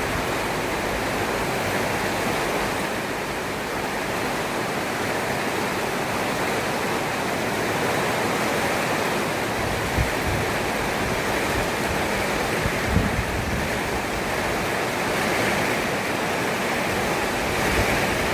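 Heavy rain pouring steadily, with a few brief low thumps about ten and thirteen seconds in.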